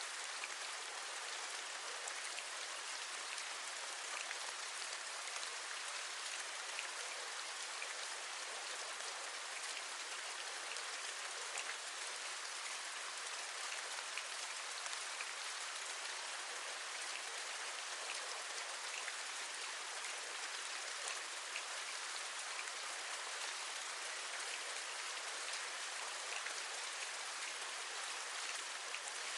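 Steady rain, a constant hiss with many fine drops tapping through it.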